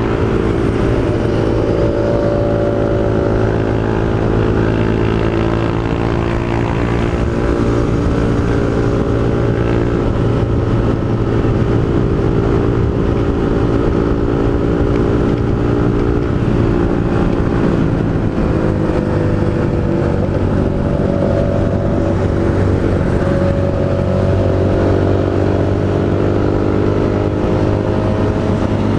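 Honda CG Fan 160's air-cooled single-cylinder engine breathing through a Pro Tork GP Competition aftermarket exhaust, running steadily with the pitch dipping and rising slightly in the second half.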